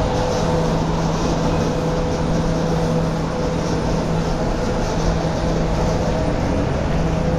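A train running at a steady speed: an even rumble with a constant hum over it.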